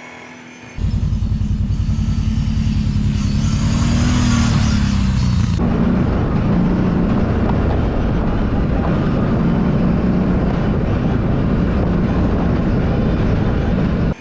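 Kawasaki Brute Force 750 ATV's V-twin engine running under throttle. It starts suddenly about a second in and climbs in pitch around four seconds in. From about five and a half seconds it turns rougher and noisier, then cuts off at the end.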